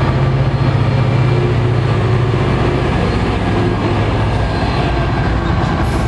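NJ Transit PL42AC diesel locomotive passing close by, its engine running with a steady low drone over the rumble of the train.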